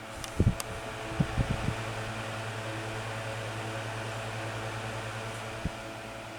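Galaxy 6-inch table fan (model 3146) running on low speed with a steady motor hum and the rush of air from its blades. A few low thumps come in the first two seconds, and one more near the end.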